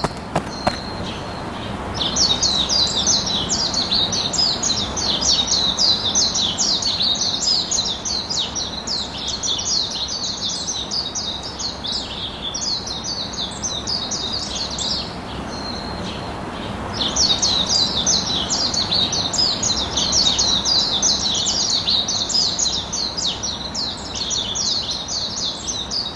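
Birds chirping: dense, rapid high chirps in two long bouts with a short break in the middle, over a steady background hiss.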